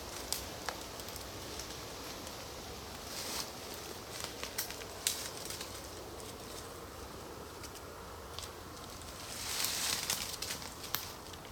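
Rustling and crunching in woodland leaf litter and twigs, with scattered sharp clicks and snaps. Louder rustles come about three seconds in and again near the end, as from someone moving about and handling brushwood.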